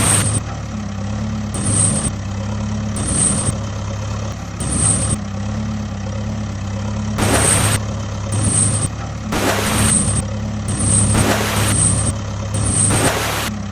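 Heavy vehicle engine running with a steady low hum, with hissing surges that come and go every second or two.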